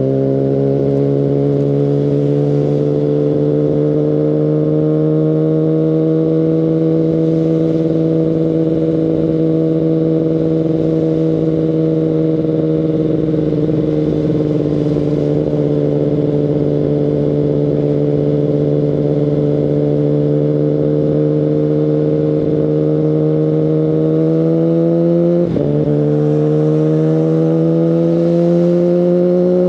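Kawasaki Ninja ZX-10RR's inline-four engine through an Akrapovic Evolution Line carbon full exhaust, running under steady throttle with its pitch slowly climbing. The engine note breaks briefly about 25 seconds in and again at the very end, like quick gear shifts.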